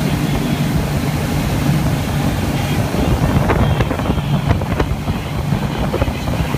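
Wakeboard boat engine running steadily under way, with wind buffeting the microphone and water rushing past. A few short sharp knocks come in the middle.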